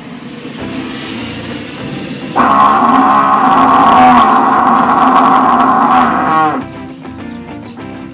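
Cattle mooing: after a quieter stretch, one long loud moo starts about two seconds in, lasts about four seconds and falls in pitch as it ends.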